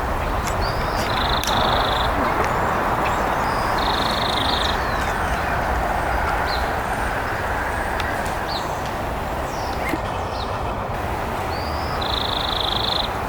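Wild birds calling: scattered short high chirps and a harsh buzzy call repeated three times, over a steady rushing background.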